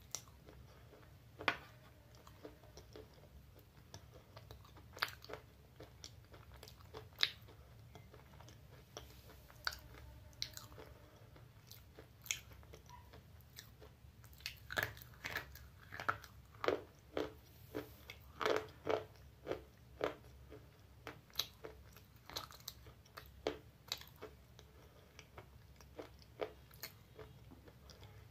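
Close-up biting and chewing of a chalky slate pencil: sharp, brittle crunches at irregular intervals, a few at first and coming thicker from about halfway.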